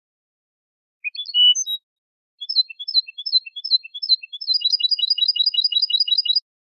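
European goldfinch singing in high, clear notes. It gives a short twittering phrase about a second in, then a repeated three-note figure, then a fast, even trill near the end.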